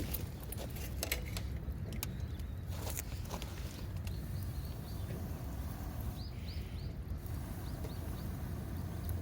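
Outdoor ambience with a low steady rumble and scattered crackling clicks in the first few seconds. From about halfway through, a bird gives short high chirps in two or three quick little groups.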